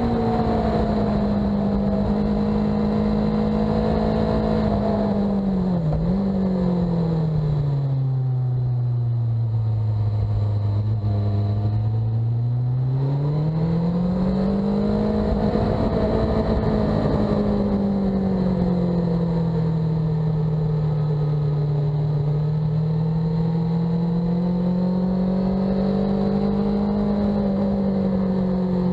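Sport bike engine lapping a racetrack, revs swinging up and down with the throttle through corners. There is a quick dip about a fifth of the way in, the revs drop to their lowest near the middle, then climb again and stay fairly steady, with wind noise underneath.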